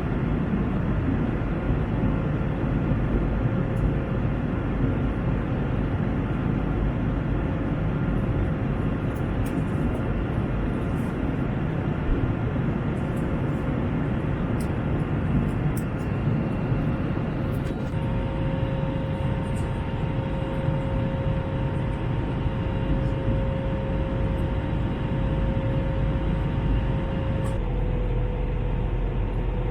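Steady roar of an Airbus A321's jet engines and airflow heard inside the cabin. A faint steady hum runs through it. A second, higher hum joins a little past halfway, and near the end the first hum drops slightly in pitch while the deep rumble grows.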